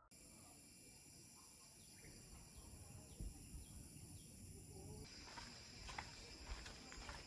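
Faint rainforest insect chorus: steady high-pitched buzzing of crickets or cicadas, with a short run of evenly repeated chirps in the middle; the highest band drops out about five seconds in while a lower one carries on.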